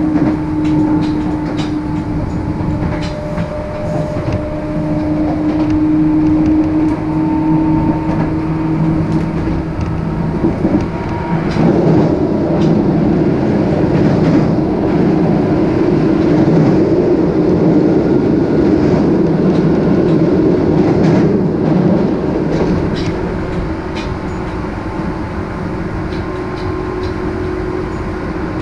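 Interior running noise of a Tobu 10030 series electric train at speed: a steady rumble of wheels on rail, with a few steady hum tones and scattered rail clicks. The rumble grows louder through the middle and eases again near the end.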